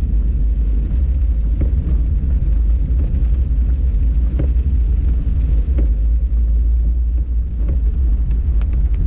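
Car driving slowly, a loud steady low rumble with a few faint knocks.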